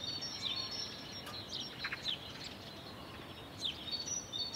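Quiet outdoor ambience: scattered short, high bird chirps over a soft steady hiss.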